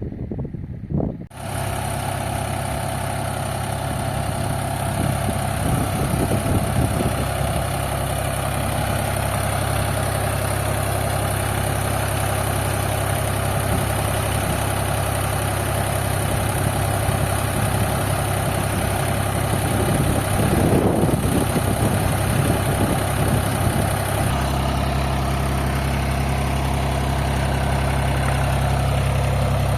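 Tractor engine running steadily at a constant speed. It comes in abruptly about a second in, and its tone shifts slightly late on.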